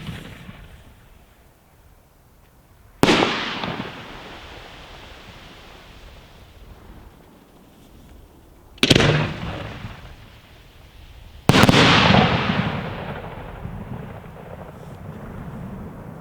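Firework bursts overhead: three loud bangs, about three, nine and eleven and a half seconds in, each trailing off slowly.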